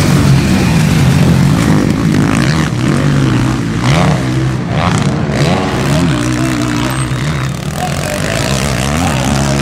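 Motocross bike engines revving, their pitch rising and falling again and again as the throttle opens and closes.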